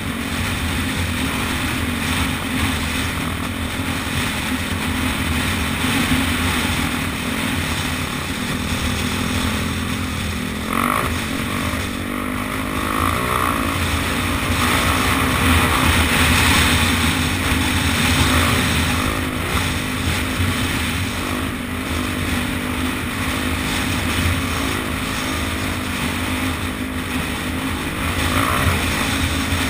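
Dirt bike engine running under way at a steady pace, with a broad rush of wind and riding noise. It gets a little louder around the middle.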